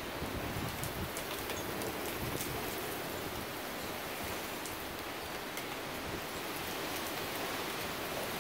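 Steady rain from a severe thunderstorm, falling as an even hiss with scattered sharp drop ticks.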